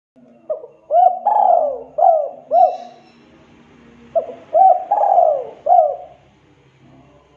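Spotted dove (tekukur) cooing: two phrases of about five notes each, with a pause of about a second between them.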